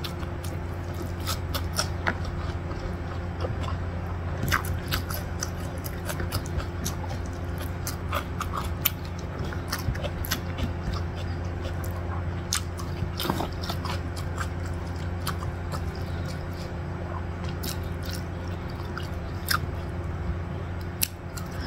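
Close-miked chewing of rice and stir-fried pak choy, with many small, irregular wet clicks and smacks from the mouth over a steady low hum.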